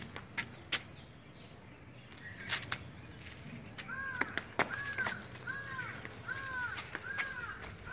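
A few sharp clicks, then from about four seconds in a bird calls over and over: about seven short, downward-arching calls, roughly one and a half a second.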